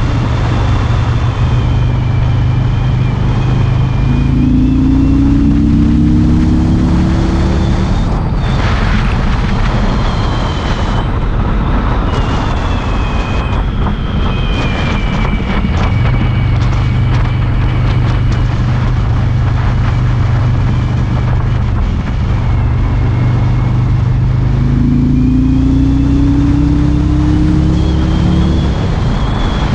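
Harley-Davidson Road King's V-twin engine under way, rising in pitch as it accelerates about four seconds in and again near the end, and running steady at cruising speed in between, with wind rushing past the microphone.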